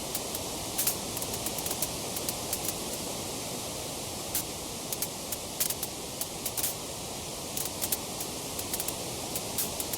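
Wood fire crackling: frequent sharp snaps and pops at irregular intervals over a steady hiss.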